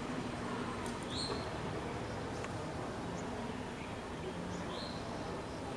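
Two short, high bird chirps over a steady hiss of background noise, one about a second in and one near the end, with a few faint high ticks between.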